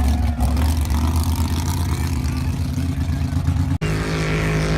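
Big mud bog truck engine running loud under throttle; it breaks off sharply nearly four seconds in and gives way to a steadier, even engine note.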